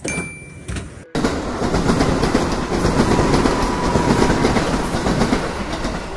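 Electric passenger train approaching along a station platform: a steady rushing rumble that starts abruptly about a second in, with a faint held tone in the middle.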